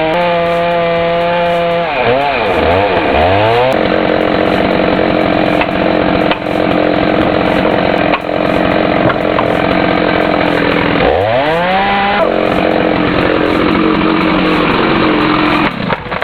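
Chainsaw running at high revs, cutting through a tree; its pitch drops and climbs back up twice.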